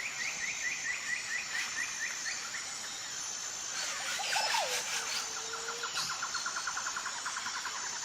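Outdoor insect and bird ambience: a steady high insect trill throughout, a run of short repeated chirps at the start, a falling whistled call that settles into a held note about halfway, and a quick string of chirps near the end.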